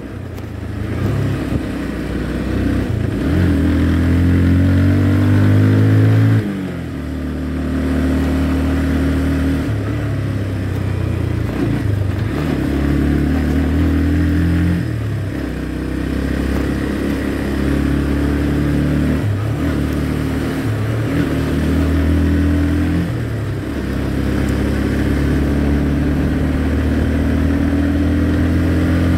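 Motorcycle engine running under way. Its note climbs for about six seconds, drops suddenly, then rises and falls several more times as the throttle is opened and closed and the gears are changed.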